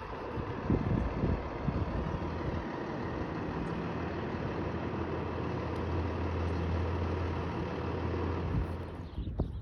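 Large emergency vehicle's engine idling with a steady low hum.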